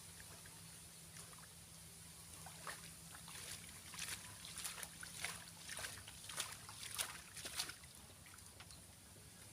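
Splashing and sloshing in shallow field water: a run of short splashes, about two a second, through the middle, over a low steady hum.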